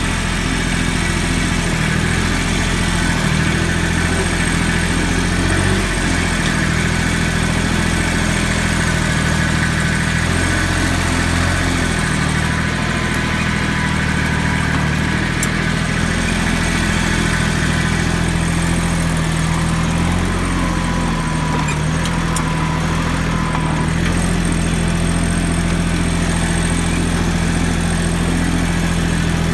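Yanmar YM169D compact tractor's diesel engine running steadily, with a slight dip and recovery in engine speed now and then.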